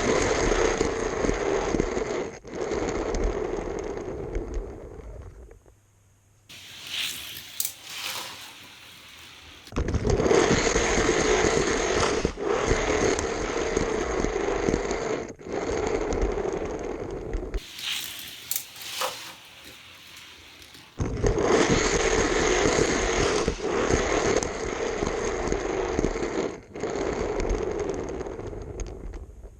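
Scraping, rattling mechanical noise in three long stretches, each starting suddenly and dying away, with quieter gaps between.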